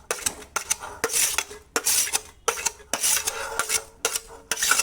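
Puffed rice being stirred in a pan with a spoon: repeated scraping strokes and clinks of the spoon against the pan, about two a second.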